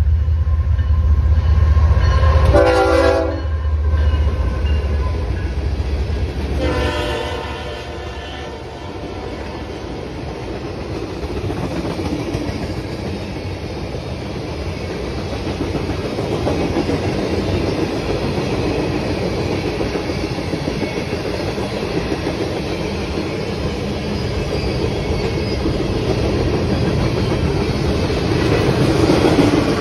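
A CSX diesel freight locomotive approaches with a heavy engine rumble and sounds its horn twice: a short blast about two and a half seconds in and a longer one around seven seconds. Then the freight train's tank cars and boxcars roll steadily past, their wheels clattering on the rails.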